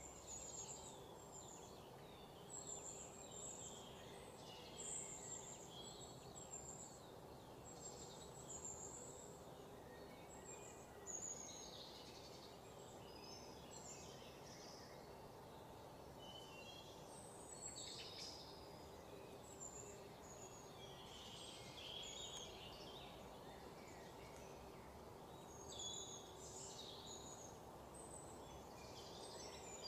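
Faint birds chirping in short, scattered calls over a steady low hum.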